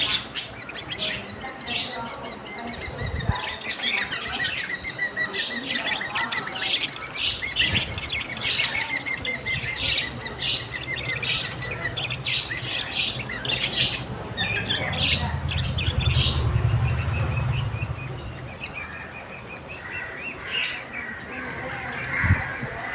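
Small pet parrots, lovebirds and budgies, chirping: a long run of rapid, repeated high chirps through the middle, with scattered chirps around it. There is a low rumble for a few seconds past the middle and a few sharp clicks.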